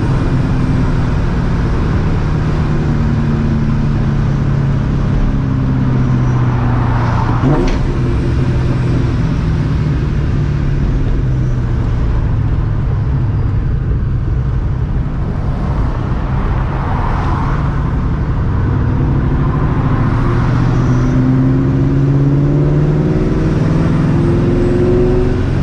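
Straight-piped, Vortech-supercharged 2004 Mustang GT's 4.6-litre V8 running steadily under way, its pitch rising gently over the last few seconds as the car accelerates.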